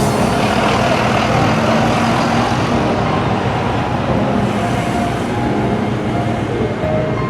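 Street traffic: vehicle engine and road noise, steady and fairly loud.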